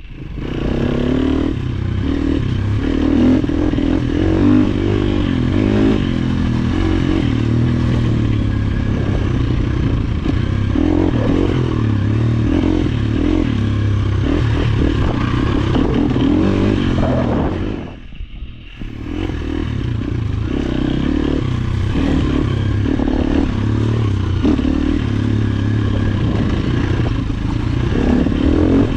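Dirt-bike engine running under constantly changing throttle, its pitch rising and falling, with rattling and clatter over it. The sound drops away sharply for about a second roughly two-thirds of the way through, then picks up again.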